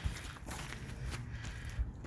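Footsteps and light scuffs while walking, over a low, uneven rumble, with one sharper step or knock near the end.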